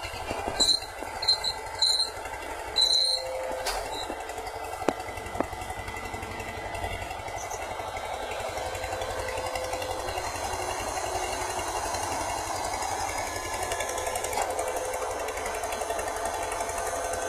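Baling machine running with a dense, rapid mechanical clatter. Four short, sharp, loud sounds come in the first three seconds.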